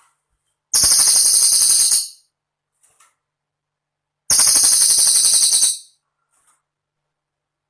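Cililin songbird singing: two loud, high, rapid trills of about a second and a half each, about three and a half seconds apart.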